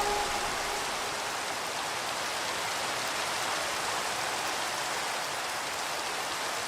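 Steady rain falling, an even hiss with no music over it; the last reverb tail of a held music chord dies away in the first half second.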